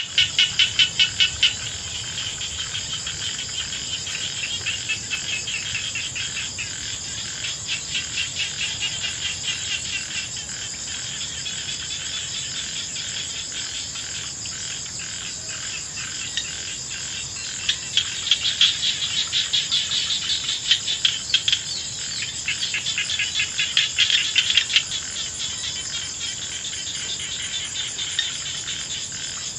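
A dense chorus of cricket-like insects calling in a rice paddy after rain: a fast, high-pitched pulsing trill that swells louder at the start and again from about the middle to near the end.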